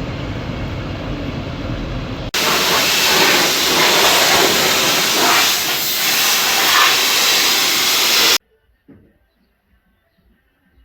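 A Mercedes W210's 3.0 diesel engine and road noise heard from inside the moving car. About two seconds in this gives way to a loud, steady rushing hiss, which lasts about six seconds and cuts off abruptly into near silence.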